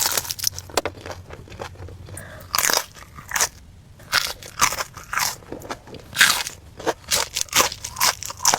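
Close-miked eating: loud, crisp crunches of someone biting into and chewing crunchy food, coming irregularly several times a second with a short pause just before the middle.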